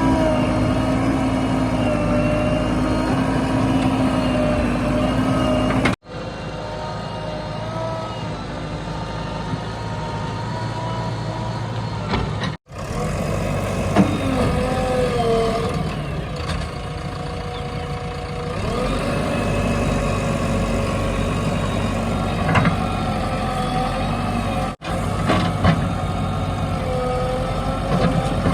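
Diesel engines of a backhoe loader and tractors running, their pitch rising and falling as they rev under load. The sound is broken by three brief, sudden dropouts.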